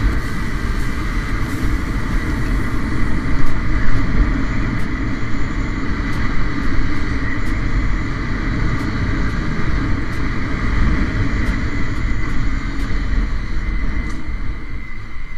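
Honda 150 cc single-cylinder motorcycle running steadily while being ridden, mixed with heavy low wind rumble on the camera's built-in microphone.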